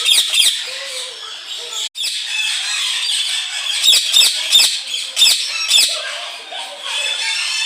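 Many songbirds chirping and singing at once, dense overlapping high calls, with a brief dropout about two seconds in.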